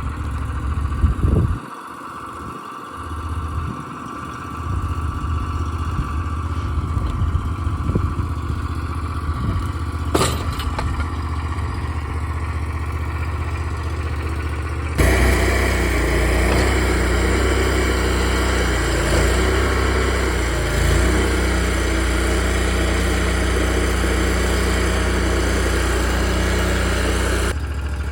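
Portable sawmill engine running steadily, dipping briefly about two seconds in, then louder and busier from about halfway until shortly before the end.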